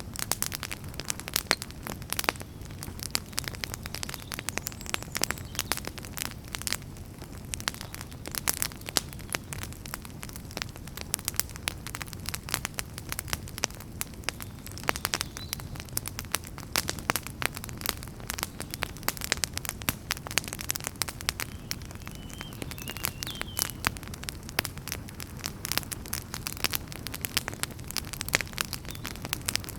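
Wood fire crackling in a fireplace: a dense, irregular run of sharp pops and snaps over a low steady rumble of the flames.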